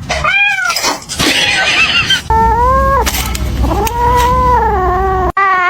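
A cat yowling: a short call, then several long, drawn-out calls that rise and fall in pitch, broken by sudden cuts.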